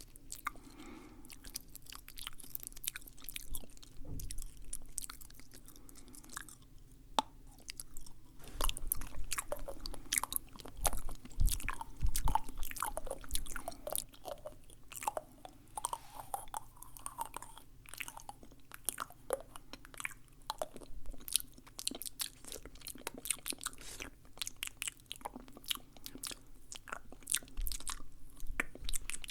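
Close-miked ASMR mouth sounds: a dense, irregular run of wet clicks, smacks and chewing-like noises, louder for a few seconds from about a third of the way in.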